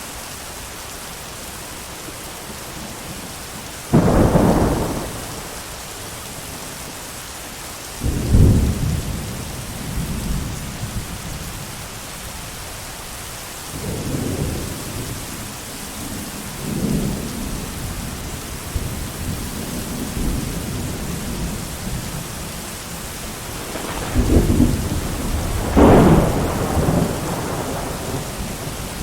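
Steady heavy rain with thunder: a sudden crack about four seconds in, another about eight seconds in, softer rumbles in the middle, and a long rolling peal near the end.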